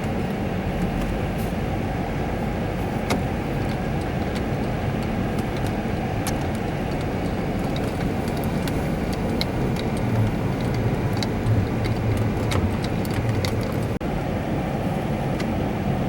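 Steady cabin noise of a 2006 GMC Envoy being driven: a constant low road and engine rumble with scattered faint clicks and rattles.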